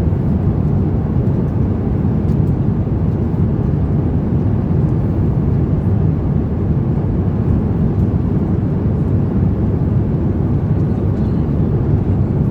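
Steady low rumble of cabin noise inside an Airbus A350-900 airliner, even and unchanging throughout.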